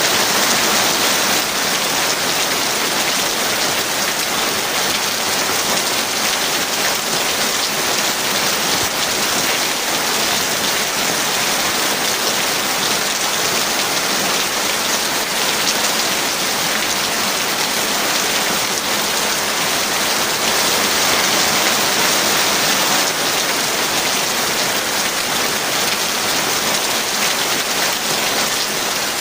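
Heavy rain falling steadily: an even, unbroken hiss of drops with no thunder.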